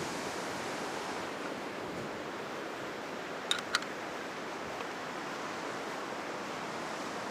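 Ocean surf washing onto the beach, a steady rushing noise from waves running high after a typhoon. Two short clicks come about three and a half seconds in.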